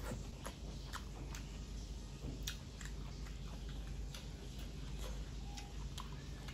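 Close-miked chewing with irregular wet mouth clicks and lip smacks, from a man eating rice and curry by hand, over a low steady hum.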